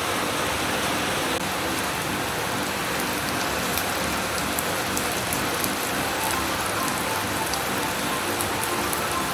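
Potato snack pieces deep-frying in hot oil: a steady sizzle with sharp crackling pops, more of them after the first few seconds.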